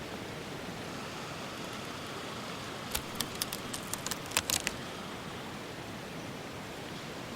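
Steady rain hiss. About three seconds in, a quick run of about ten sharp clicks or cracks over a second and a half.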